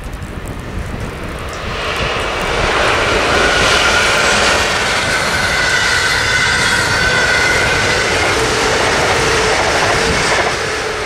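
SNCB AM08 Desiro electric multiple unit passing at speed: a loud rushing of wheels on rail that swells about two seconds in, holds with a steady high tone riding on it, and falls away near the end, over a constant low wind rumble on the microphone.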